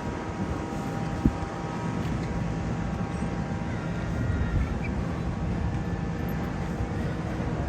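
Steady low rumble and hiss with a faint steady hum, typical of the background noise aboard a ship, broken by one sharp knock about a second in.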